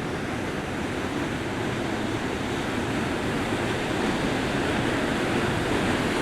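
Steady rushing roar of North Falls, a large waterfall, growing gradually louder.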